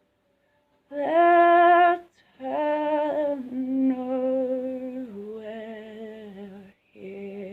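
A woman singing unaccompanied, holding long wordless notes that step down in pitch; the first note, about a second in, is the loudest.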